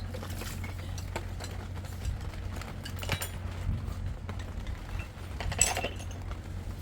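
Scattered light clinks and knocks of utensils against dishes or pots, with a louder knock near the end.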